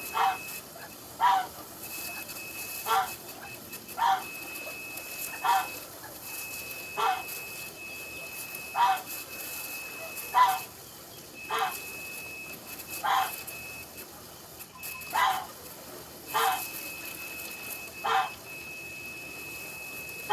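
A dog barking steadily, one short bark about every second and a half, some fourteen in all. Behind it runs a steady high thin tone that stops and starts.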